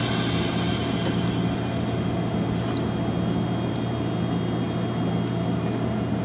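Double-deck electric commuter train standing at a platform, its equipment giving a steady low hum. A high ringing tone fades away over the first second or so, and there is a short hiss about two and a half seconds in.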